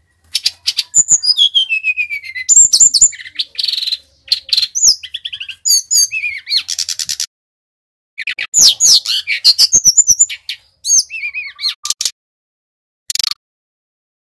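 Sikatan rimba dada coklat (SRDC), a jungle flycatcher, singing vigorously: fast, high whistled phrases with rapid trills and downward-sliding notes, broken by short pauses, with one brief phrase near the end.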